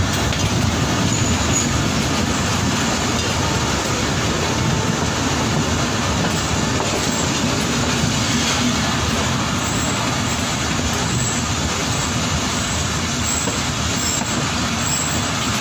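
Passenger train coach running alongside a station platform, heard from its open door: a steady running noise of the wheels on the rails.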